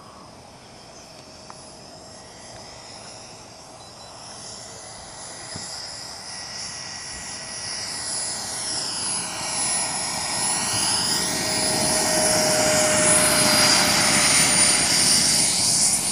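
Radio-controlled model aircraft flying in and passing close, its engine noise swelling steadily louder with a steady high whine over it.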